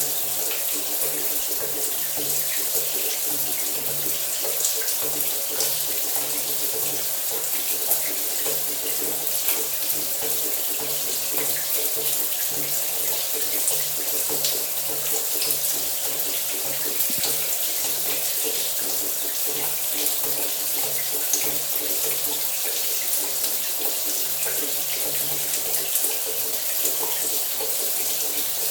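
Shower water running steadily: an even hiss of spray with small spatters, and a faint low hum underneath that comes and goes.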